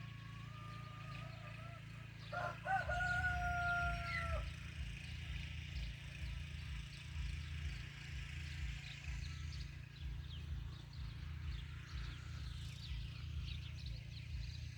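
A bird's call: a short rising note at the start, then a loud, long held call about two seconds in that lasts about two seconds and rises at its end. A low rumble continues after it, with faint high chirps.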